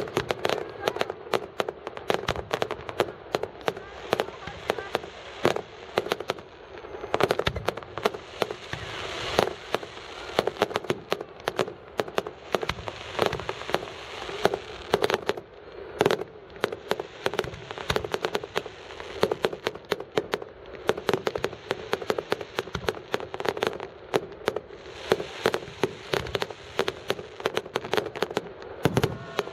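Fireworks display: a dense, unbroken run of sharp bangs and crackles, many a second.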